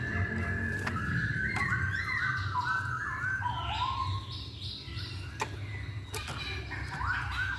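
Masked laughingthrush singing a run of clear whistled notes, several sliding and stepping down in pitch through the middle, over a steady low hum, with a few sharp clicks.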